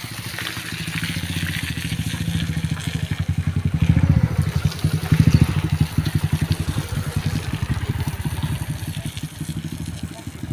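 A motor vehicle's engine running hard with a fast, even throb. It grows louder to a peak about four to five seconds in, then eases off.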